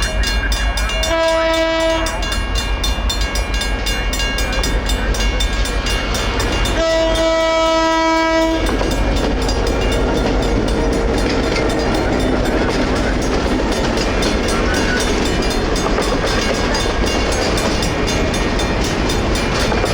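Railroad crossing's mechanical bell ringing steadily as Napa Valley Railroad's EMD GP9 diesel locomotive sounds its air horn twice, a short blast about a second in and a longer one about seven seconds in. The locomotive and its passenger cars then roll through the crossing, with diesel rumble and wheels clacking over the rails.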